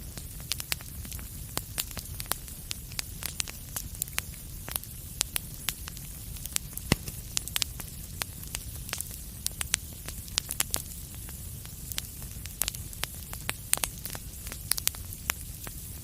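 Wood fire crackling: irregular sharp pops and snaps, many each second and one louder snap about seven seconds in, over a steady low rumble.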